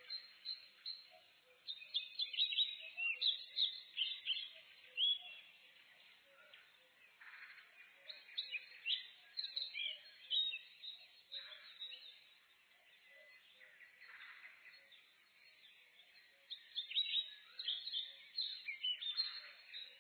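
Several songbirds chirping and singing in a forest dawn chorus, with many short high notes and trills coming in busy clusters and quieter stretches between.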